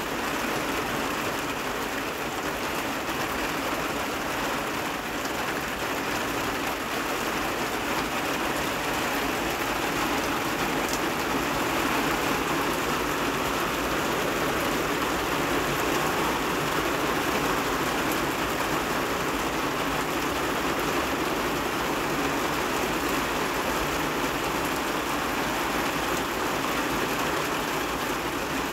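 Heavy rain falling steadily onto a flat rooftop and the surrounding trees, an even, unbroken hiss of splashing drops.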